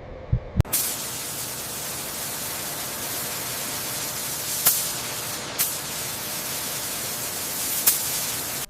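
A steady hiss starts just under a second in, with a few sharp clicks over it, then cuts off suddenly.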